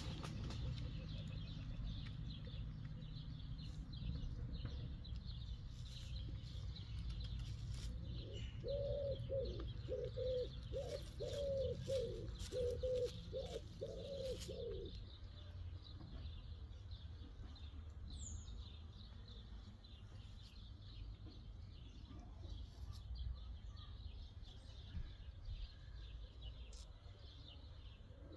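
Birds calling: a low cooing call repeated about twice a second for some six seconds in the middle, over steady high chirping of small birds, with a low rumble in the first half.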